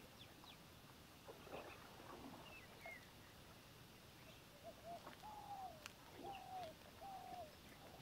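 Faint bird calls over quiet open-air background: a few short chirps, then about halfway a run of clear whistled notes, the last three longer and slightly dropping at their ends.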